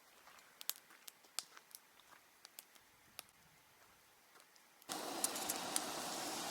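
Campfire crackling faintly with scattered sharp pops. About five seconds in, a steady hiss starts suddenly and much louder, with the pops continuing.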